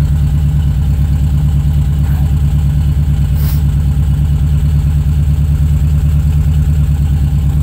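1970 VW T2 camper's air-cooled 1600 flat-four engine idling steadily with an even low hum.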